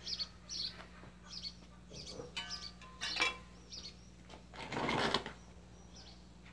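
Small birds chirping intermittently, short high chirps repeated every half second or so, with a brief rustling scrape about five seconds in.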